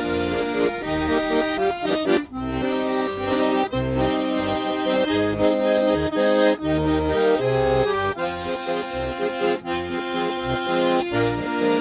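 Russian garmon (button accordion) playing an instrumental melody over a steady, rhythmic left-hand bass-and-chord accompaniment.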